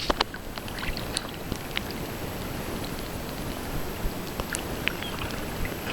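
Steady wash of water noise while snorkeling, with scattered faint clicks and ticks.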